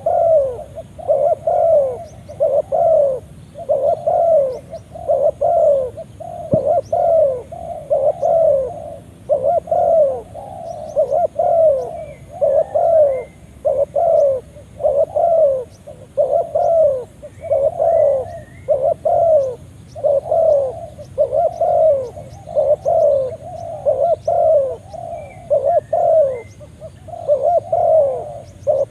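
Spotted dove cooing: a steady run of low coo notes, about one a second, each falling in pitch. Faint higher chirps of other birds sound now and then.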